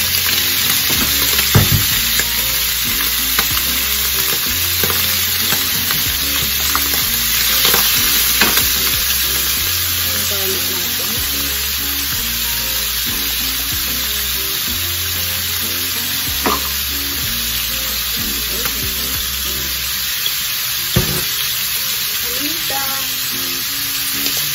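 Sliced squid rings sizzling steadily in hot oil in a frying pan, with a few sharp knocks from a wooden spatula stirring them.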